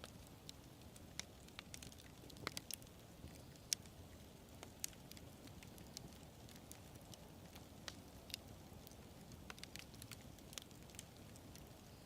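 Wood fire burning with a soft low rumble and scattered sharp crackles and pops at irregular intervals.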